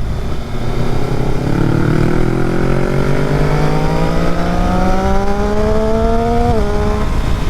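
Motorcycle engine accelerating hard, its pitch rising steadily for about five seconds, then dipping briefly at an upshift about six and a half seconds in and holding steady, with heavy wind rush on the rider's microphone.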